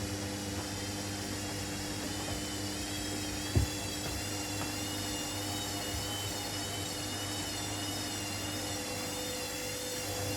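Front-loading washing machine running on its spin cycle: a steady motor hum with a wavering high whine. One short knock about three and a half seconds in.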